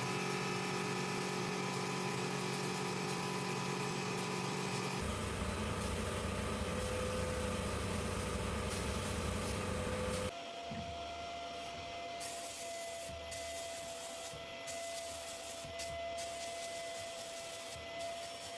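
Workshop power tools working on rusty metal, a steady motor hum with rubbing and scraping. The sound changes abruptly twice, about five and about ten seconds in, as a different tool or operation takes over.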